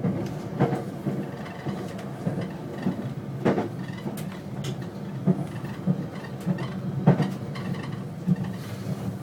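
A commuter train running, heard from inside the carriage: a steady rumble of wheels on the track, broken by irregular clicks and knocks from the rails. The sharpest knocks come about three and a half and seven seconds in.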